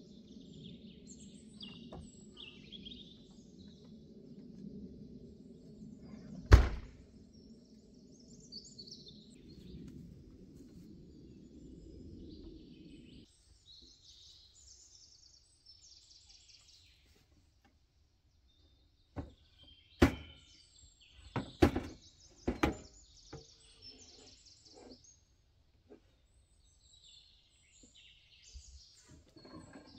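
Small birds chirping and calling outdoors over a steady low hum that cuts off about halfway through. There is a single loud knock early on, and near the end a run of sharp clicks and knocks.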